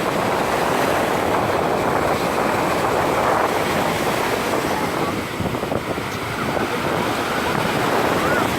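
Black Sea surf washing onto a sandy beach: a steady rush of breaking waves that eases a little past the middle and swells again near the end.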